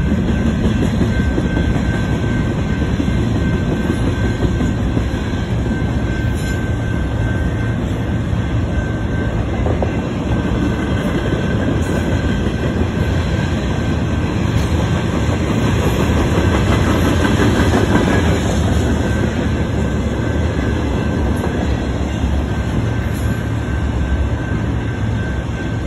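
Long freight train of hopper, tank and autorack cars rolling past close by: a steady rumble of steel wheels on the rails, with a thin high wheel squeal that fades out and comes back several times.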